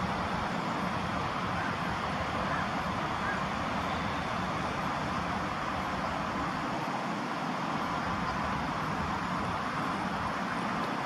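Steady hiss of road traffic, an even wash of noise that does not rise or fall.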